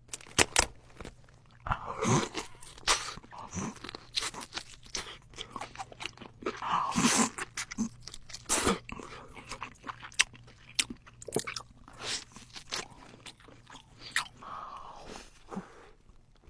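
Close-miked eating of crisp food: many sharp, irregular crunches from bites and chewing.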